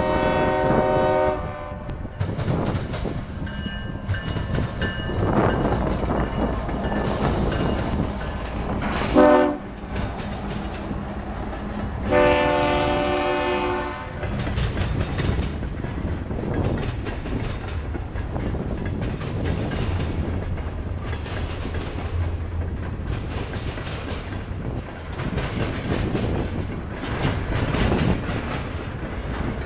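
Diesel freight locomotive's air horn sounding three blasts: a long one at the start, a short one around nine seconds in, and another long one around twelve seconds in. Under and after the horn, the train's locomotive and a long string of open-top freight cars roll past with steady rumbling and clickety-clack of wheels over rail joints.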